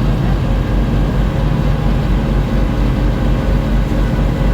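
Friendship Boat's engine running steadily under way, heard from the stern seats: a loud, even low hum with a fast throb.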